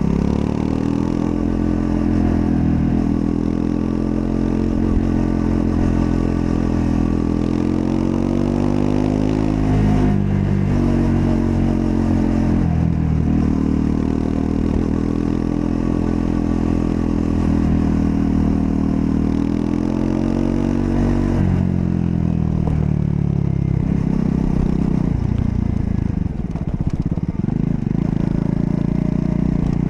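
Triumph Scrambler 400 X's single-cylinder engine accelerating under load. The pitch climbs steadily, drops sharply at a gear change about ten seconds in, and climbs again. It drops again about twenty-one seconds in and then runs at lower, uneven revs near the end.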